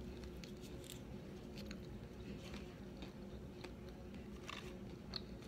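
Faint eating sounds: quiet chewing and scattered small clicks as pieces of food are pulled apart by hand, over a steady low room hum.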